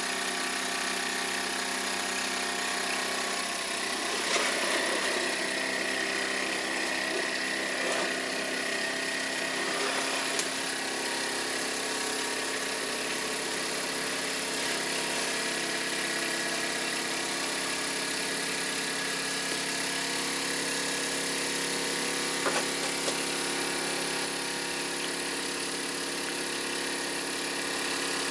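Toy live-steam tractors by Mamod and Wilesco running steadily, an even mechanical whir with a few sharp clicks and knocks, the loudest about four seconds in and again past twenty-two seconds.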